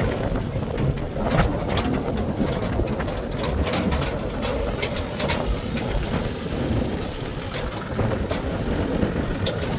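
Heavy diesel machinery running steadily with a low rumble, with scattered sharp clanks and knocks.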